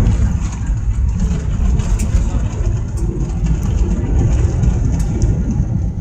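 Loud, steady rumble inside an airliner cabin during the landing roll: the jet engines and the wheels on the runway, with light rattling ticks.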